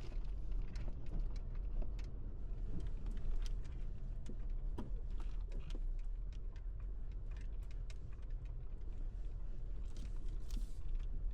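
A car driving slowly over a rough dirt road: a steady low rumble of engine and tyres, with frequent small knocks and rattles from the bumpy surface.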